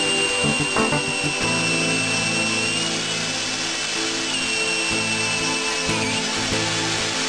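Metabo cordless magnetic drill running with a steady high whine, which dips slightly about three seconds in and again near the end, over background music.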